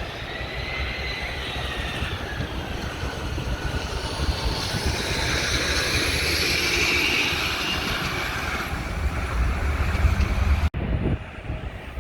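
Jet airliner passing overhead: a whining engine tone rises and then falls over the first few seconds, and a rush of jet noise swells through the middle and fades. Wind rumbles on the microphone throughout, and the sound breaks off abruptly near the end.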